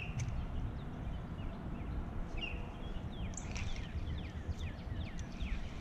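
Birds calling: a series of short, quick falling chirps that starts about two seconds in and grows busier toward the end, over a low steady rumble.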